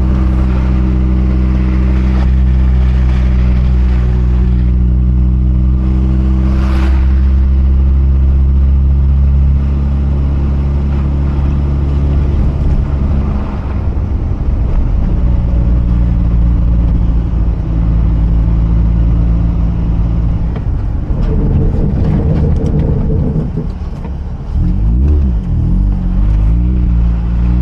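Mazda RX-8's twin-rotor rotary engine running as the car is driven, a steady low drone. The engine note changes about halfway through and rises and falls several times near the end as the revs change.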